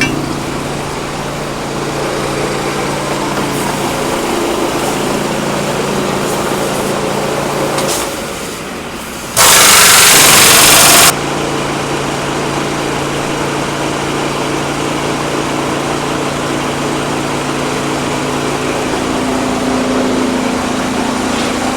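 Engine running steadily at a constant pitch. About halfway through, a loud hiss cuts in and lasts nearly two seconds.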